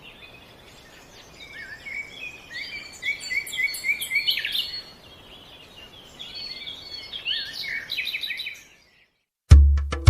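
Small birds chirping: quick, high, repeated chirps in two bouts, which stop suddenly a little before the end. Just before the end, loud music with a heavy drum beat starts.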